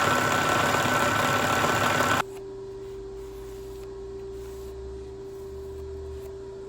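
Milling machine running as it cuts a slot, stopping abruptly about two seconds in and leaving a quiet, steady hum.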